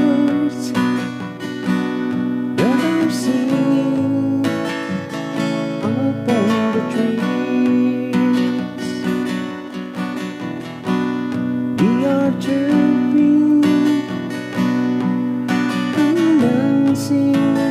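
Music: acoustic guitar strumming chords in a song's instrumental introduction.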